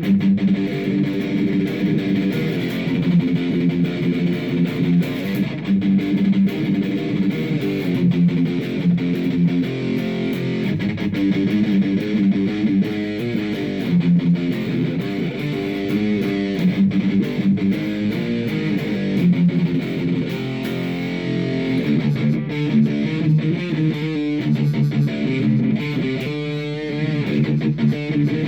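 Electric guitar playing a continuous run of changing plucked notes.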